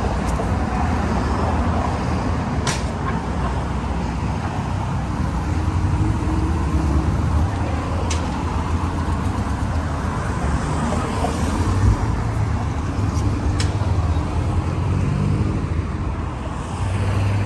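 Steady road traffic on a busy street: cars and other vehicles passing close by in a continuous low rumble, with a few faint clicks.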